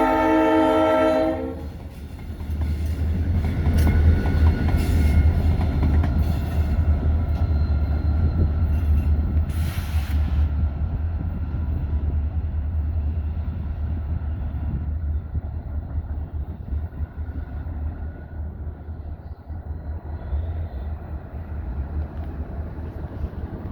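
Norfolk Southern light engine move of three EMD SD40-2s and an SD33ECO: a locomotive horn chord cuts off about a second and a half in, then the diesels pass with a deep rumble and some clicking from the wheels, slowly fading toward the end.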